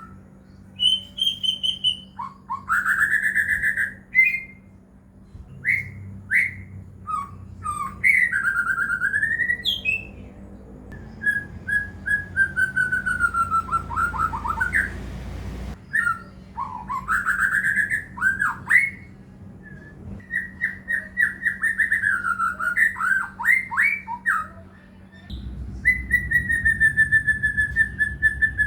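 White-rumped shama (murai batu) singing: a varied run of loud, clear whistled phrases, with rising and falling glides and rapid trills, each phrase a second or two long with short pauses between.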